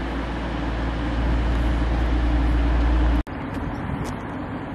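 Class 222 Meridian diesel multiple unit approaching along the platform: a heavy low engine rumble with wheel and rail noise, growing slightly louder. About three seconds in it cuts off abruptly, leaving lighter outdoor noise with a couple of faint clicks.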